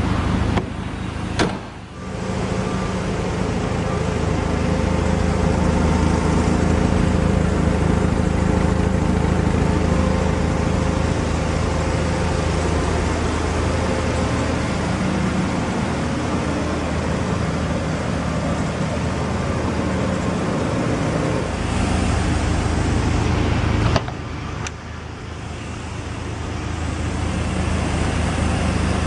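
A car engine idles steadily, with a low, even hum. There is a sharp click about a second and a half in. About five seconds before the end the sound drops suddenly, then builds back up gradually.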